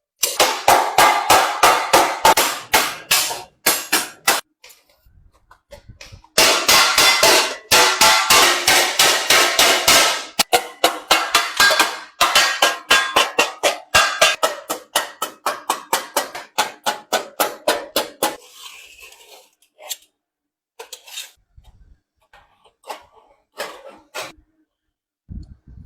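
Rapid, evenly spaced hammer blows on metal stock, about five a second, in two long runs with a short pause between. They give way to sparser, quieter taps near the end.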